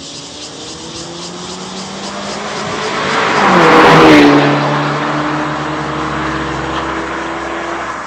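Car with a turbocharged four-cylinder engine and aftermarket valved catback exhaust driving past. It grows louder to a peak about four seconds in, the engine note dropping in pitch as it passes, then runs on at a steady, lower pitch.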